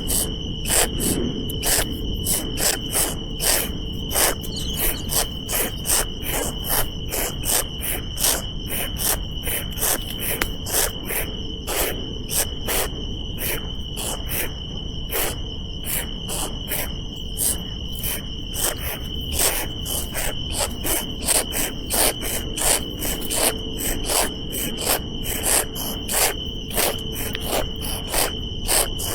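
Insects droning steadily at a high pitch, with many sharp irregular clicks a few times a second over it.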